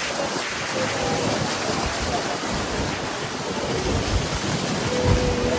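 Steady rushing roar of falling water and spray at the foot of Niagara Falls, with wind buffeting the microphone.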